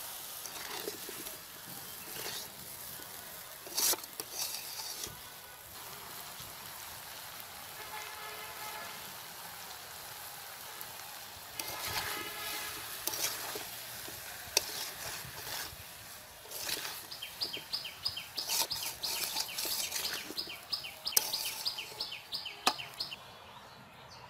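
Chunks of squash in spice paste sizzling in oil in a metal wok, stirred and scraped with a metal spatula, with scattered clicks from the spatula. In the last third a bird calls in a quick run of short, high repeated notes.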